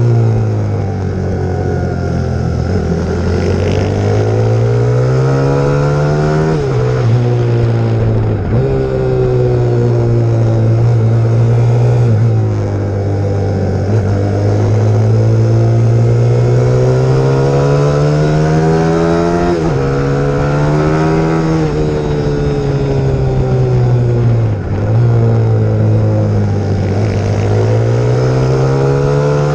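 YX150 pit bike's single-cylinder four-stroke engine ridden hard, its pitch climbing and falling again and again as the rider goes through the gears, with a few short sharp drops in engine speed.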